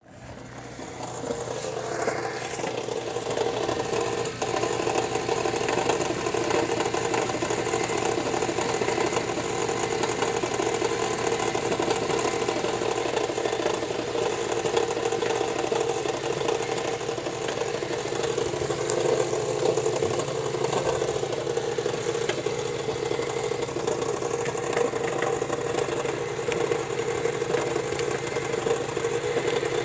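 Mazda 3 engine idling steadily with a rapid, even knock from under the hood.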